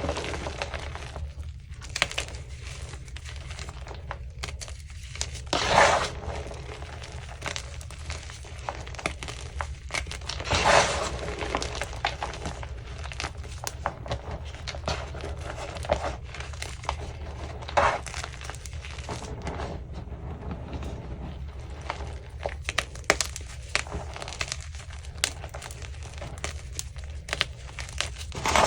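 Chunks of Easy Grip gym chalk crushed and crumbled, with several loud crunches a few seconds apart and fine crackling and crumbling in between.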